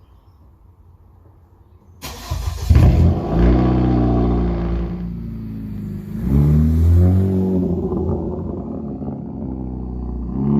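Straight-piped 2014 Hyundai Genesis Coupe 2.0T turbocharged four-cylinder starting about two seconds in, flaring up loudly, then settling to idle, with a short rev rising and falling around six seconds and the engine speed rising again near the end.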